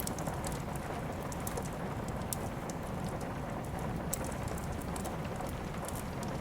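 Steady rain, with the scattered sharp crackles and pops of a wood fire burning in a fireplace.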